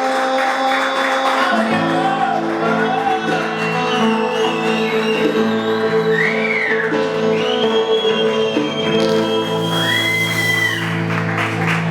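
Live rock band playing sustained chords on electric guitar, with bass coming in about two seconds in and a few sliding high notes later on.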